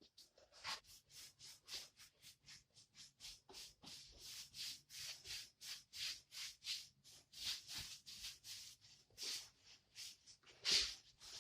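Rhythmic hand strokes rubbing back and forth over a freshly patched and sanded plaster wall, about three short rasping strokes a second.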